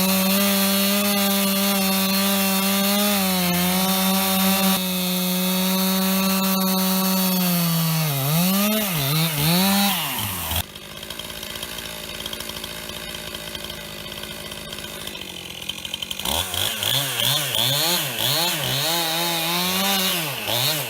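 Two-stroke Stihl chainsaw with a 20-inch bar cutting into a large red oak log. It runs flat out for several seconds, then its engine speed sags and recovers under the load. About halfway through it drops to a quieter, lower run for several seconds, then comes back, revving and bogging again and again.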